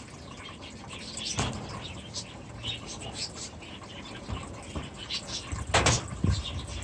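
Small aviary birds chirping and chattering in short, scattered calls, with two louder knocks, about a second and a half in and near the end.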